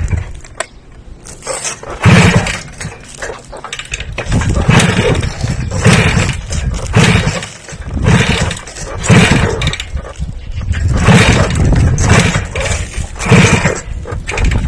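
Motor revved in repeated short bursts, about one a second, each rising and falling away.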